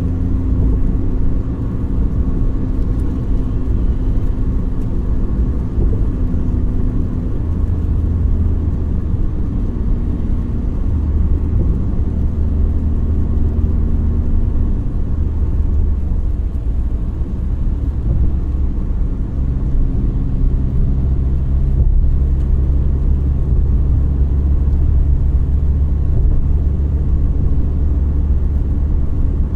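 Car driving: a steady low rumble of engine and road noise, with the engine's hum stepping up and down in pitch as the speed changes.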